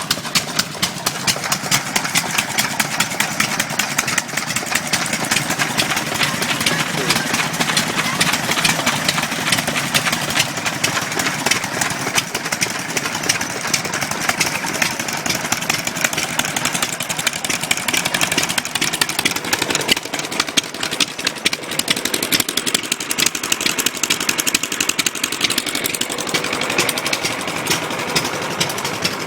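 Antique stationary engines running, with a steady rapid beat of firing strokes throughout.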